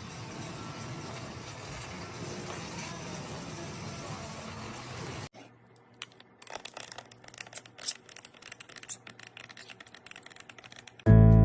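A steady rushing noise that cuts off suddenly about five seconds in, then a run of irregular light clicks and taps over a faint low hum. Loud guitar music starts at the very end.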